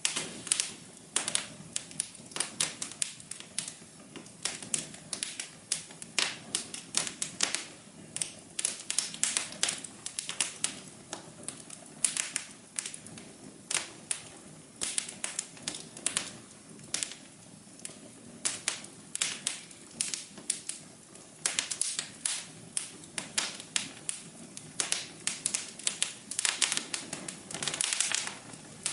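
Wood fire crackling in a fireplace: irregular sharp pops and snaps, several a second, over a soft steady hiss of the flames.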